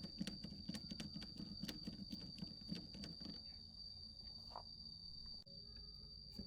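Irregular light clicks and taps over a steady high-pitched whine. The clicking and a low hum under it die away about three seconds in, leaving only the whine and a few faint ticks.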